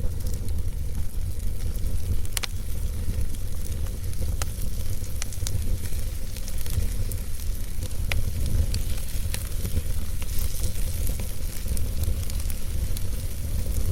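Wood fire burning in a fireplace: a steady low rumble of the flames with scattered sharp crackles and pops from the logs every second or two.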